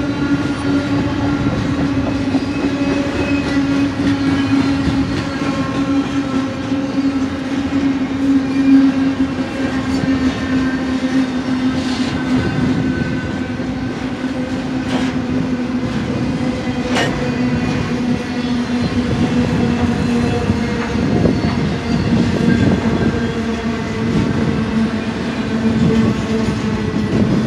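Double-stack intermodal well cars of a freight train rolling past close by, a steady noise of wheels on rail. A steady ringing tone runs through it, slowly falling in pitch, and a few sharp knocks come around the middle.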